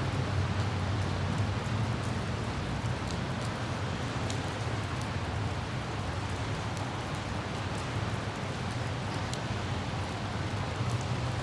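Light rain with scattered droplet ticks over the steady low rumble of a car driving.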